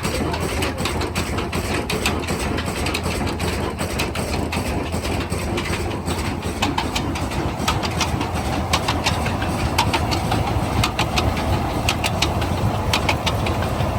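Diesel engine running steadily, with a rapid clatter of sharp knocks over its low hum.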